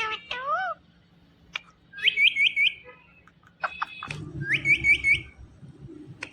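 Indian ring-necked parakeet whistling: a short bending call near the start, then twice a rising whistle that breaks into four quick warbled notes, about two and a half seconds apart.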